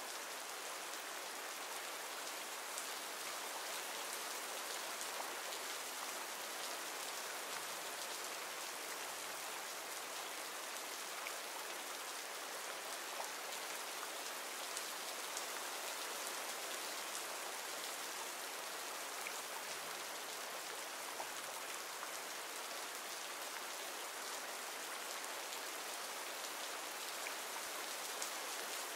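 Steady rain from a rain-sounds library track: an even hiss of falling rain with scattered individual drop ticks.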